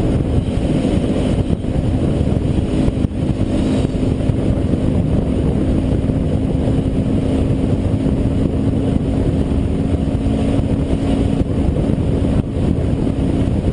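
Motorcycle cruising at a steady speed: an even engine hum at constant pitch under loud rumbling road and wind noise.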